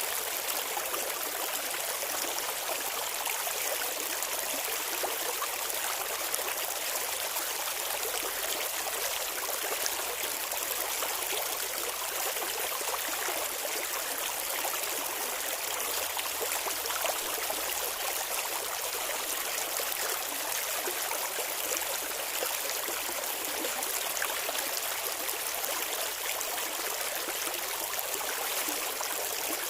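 Shallow clear river flowing and babbling over stones: a steady, even rush of water with no change in strength.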